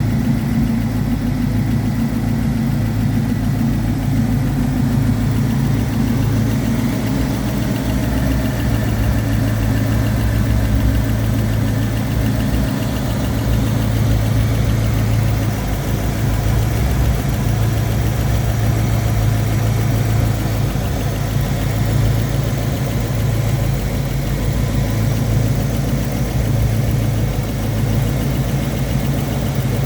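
Ford Bronco engine idling steadily.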